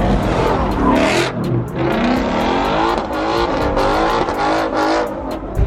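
A car engine revving hard several times over, its pitch climbing and dropping with each rev, then cutting off sharply near the end.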